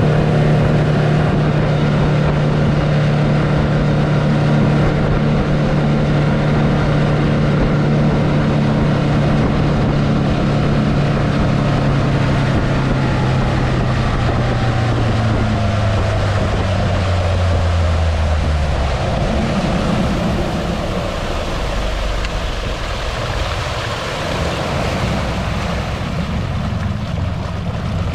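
Mercury 150 hp four-stroke outboard running on a boat, its engine note slowly falling in pitch as it throttles back. About two-thirds of the way in the engine sound drops away, leaving rushing water and wind.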